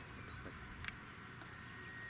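Faint outdoor ambience with small bird chirps near the start and a single sharp click just before the one-second mark. A thin, steady faint whine comes in about halfway through.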